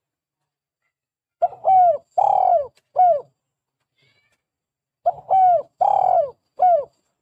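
Spotted dove cooing: two phrases of four coos each, the notes falling in pitch, the second phrase starting about three and a half seconds after the first.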